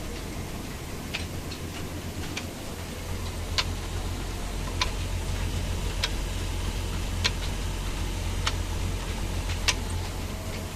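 Large stationary engine driving a flour mill, running with a steady low thrum and a sharp click about every 1.2 seconds.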